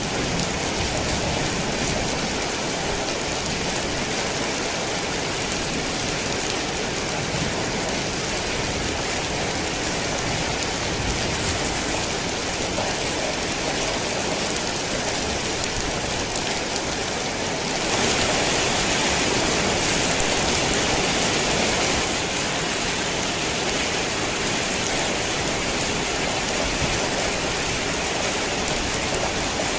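Heavy rain falling steadily in a dense, even hiss. It briefly grows louder and brighter for a few seconds past the middle.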